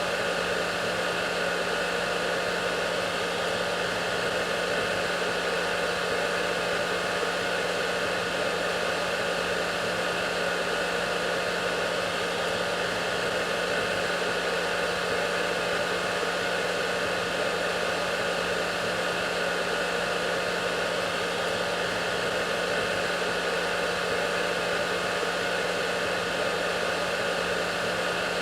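Hair dryer running steadily: an even rush of blown air with a constant low motor hum and a few thin, steady high tones, unchanging throughout.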